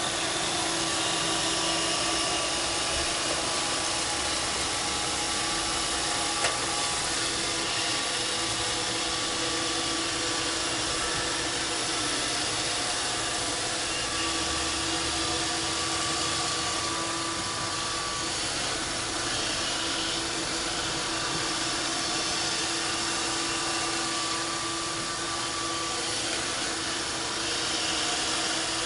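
Roomba 531 robot vacuum running: a steady whirring hiss with a constant hum, and a single sharp click about six seconds in.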